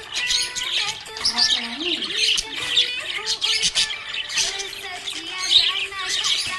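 A group of budgerigars chirping and chattering continuously, many quick overlapping tweets and warbles.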